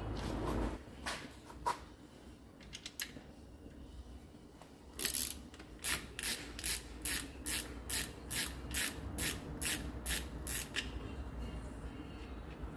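Metal tool clicks from car work: a few scattered clicks, then a run of about fifteen sharp, evenly spaced ratchet clicks, about three a second, that stops short of the end.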